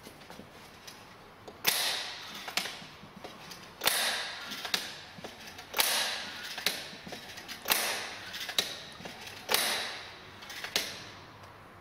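Woodpecker wood test hammer (sclerometer) firing repeatedly: five sharp spring-loaded strikes about two seconds apart, each with a brief ringing tail and followed about a second later by a lighter click.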